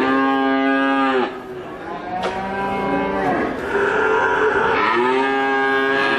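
Cow mooing: several long moos in a row, each lasting about a second.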